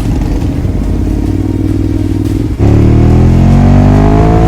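Motorcycle engine running at low, steady revs, then about two and a half seconds in the throttle opens: the engine gets suddenly louder and its note climbs steadily as the bike accelerates.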